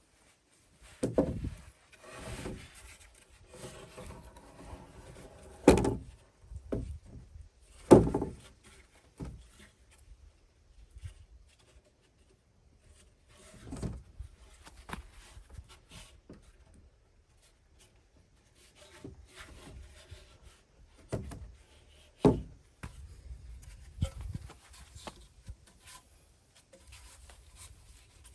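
Wood being handled and worked: irregular knocks and thumps of timber, with scraping and rubbing between them and a few quiet pauses.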